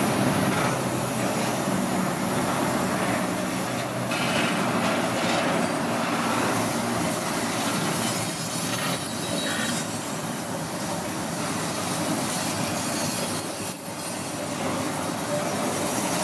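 Double-stack intermodal container train rolling past at close range: the steady rumble and rattle of steel wheels and well cars on the rails.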